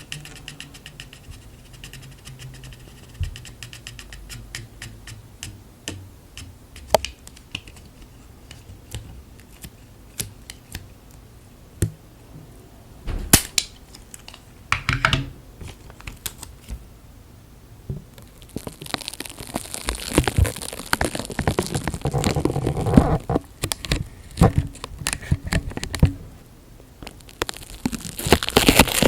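Close-miked ASMR handling sounds: scattered light taps and clicks at first, then a stretch of crinkling and rustling from about twenty seconds in, with another burst of crinkling near the end, the sort made by plastic or tape worked against the microphone.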